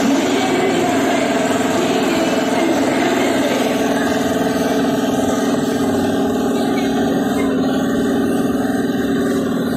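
Motorcycle engine running steadily, echoing inside the wooden drum of a well-of-death arena.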